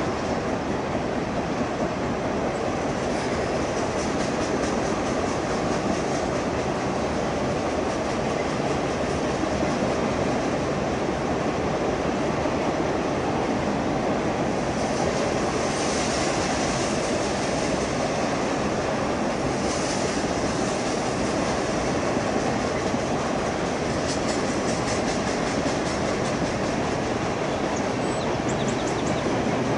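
Freight cars of a long mixed freight train rolling past at steady speed: a continuous, even rumble of steel wheels on rail.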